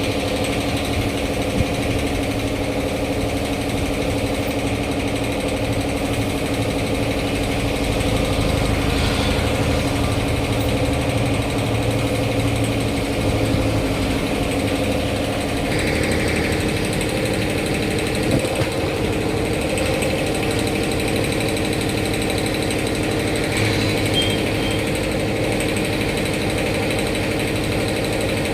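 A machine running steadily with a constant droning hum that shifts in pitch slightly about halfway through, with a few faint knocks.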